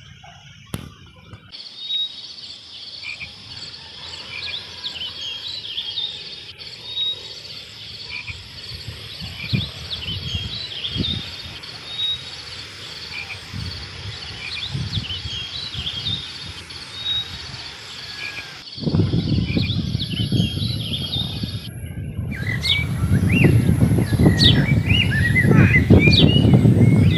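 Frogs croaking at intervals of a second or two over a steady high chorus of chirping insects or frogs. Near the end the sound changes to birds chirping over a louder low rushing noise.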